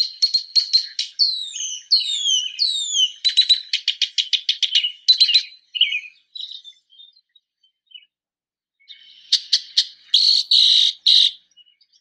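A songbird singing a rapid, varied song of quick high notes, downward-slurred whistles and a fast trill. It falls silent for a few seconds in the middle, then sings a shorter burst near the end.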